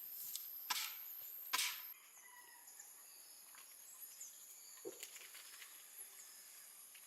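Two sharp knocks about a second apart, then faint outdoor background with a steady high whine and a few short chirps.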